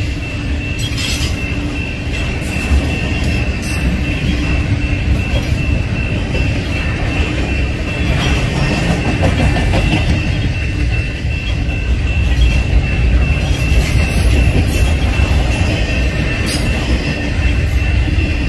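Double-stack container train's well cars rolling past close by: a steady heavy rumble of steel wheels on rail with a thin, steady high-pitched wheel squeal and occasional sharp clacks.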